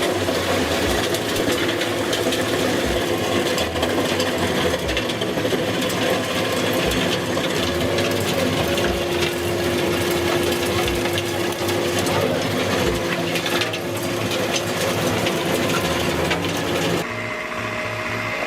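Vermeer RTX750 ride-on tractor working, its engine and attachment running steadily, with a low knock about once a second. The sound changes abruptly near the end.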